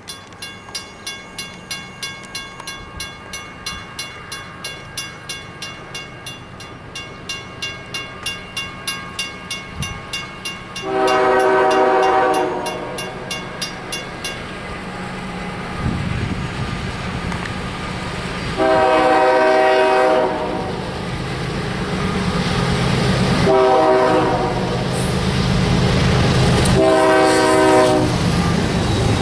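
Railroad crossing bell ringing about three strokes a second, then a diesel locomotive's multi-chime air horn blowing the grade-crossing signal, long, long, short, long, as the train's low rumble grows.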